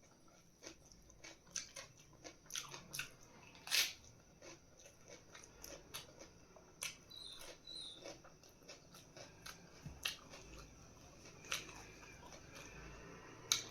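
Close-miked eating: chewing and biting into food, with irregular crunches and mouth clicks every fraction of a second.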